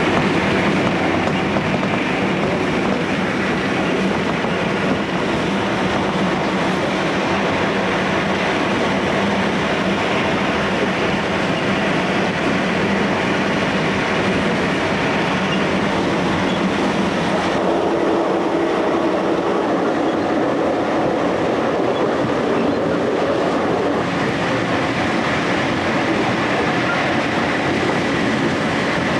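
Train running at speed: a steady rumble of wheels on rail, with some clickety-clack. The tone shifts a little over halfway through.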